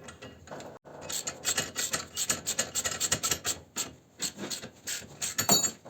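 Hand tool working on metal: a quick, uneven run of short rasping strokes, about three or four a second, starting about a second in.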